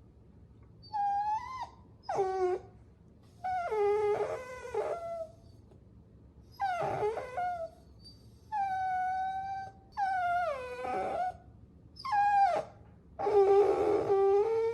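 Puppies whining: a run of about eight high-pitched whines and yelps with short pauses between them. Some are held on one pitch and others slide up or down, and the longest and loudest comes near the end.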